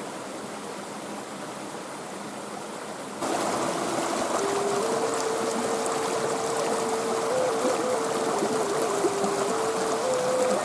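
Steady rushing of running water, like a stream. About three seconds in it gets louder and a slow melody of long held single notes starts over it.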